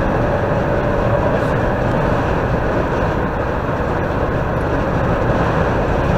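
Steady tyre and wind noise inside a car driving at highway speed, with a faint steady hum underneath.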